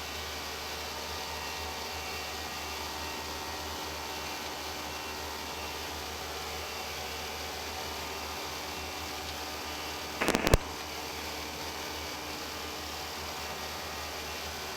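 Steady rushing cockpit noise of an Airbus A320 in flight, airflow and ventilation with a low hum beneath. A short, sharp burst cuts in about ten seconds in.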